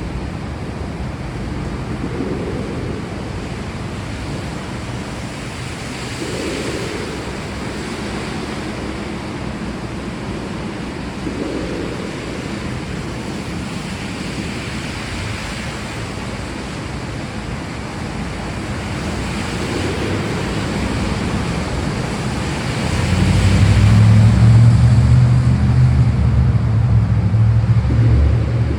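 Steady rain with a rushing, swelling wash, then a deep rolling thunder rumble that builds in about two-thirds of the way through and runs on to the end.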